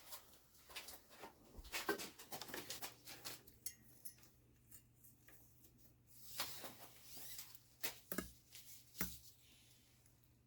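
Faint scattered clicks, light knocks and rustles, with a few firmer taps near the end.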